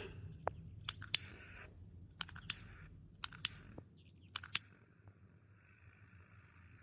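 A handheld lighter clicked over and over, about nine sharp clicks mostly in pairs across the first four and a half seconds, as it is worked to get a flame; the lighter is giving trouble.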